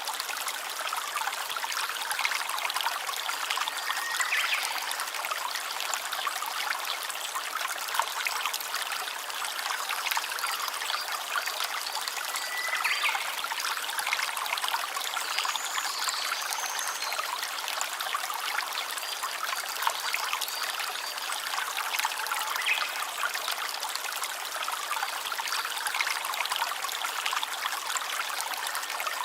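A small stream trickling and babbling steadily, with a few brief faint high chirps over it.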